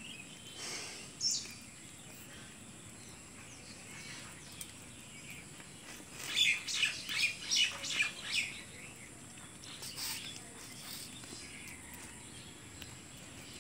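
Birds chirping over quiet outdoor background noise, with a quick run of chirps about six seconds in and a few more near ten seconds.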